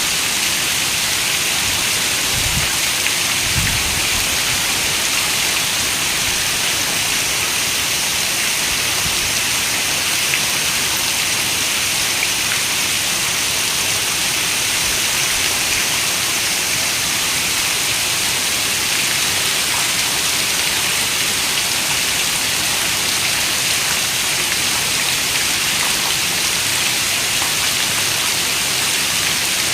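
Steady, even rain hiss with no let-up. Two brief low thuds sound near the start.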